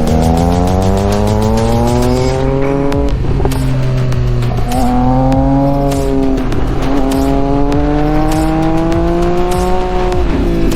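Onboard sound of a high-performance naked sport motorcycle engine accelerating hard: the engine note climbs steadily, drops back as it changes up a gear about three seconds in and again at about six and a half seconds, climbs once more, and falls again near the end.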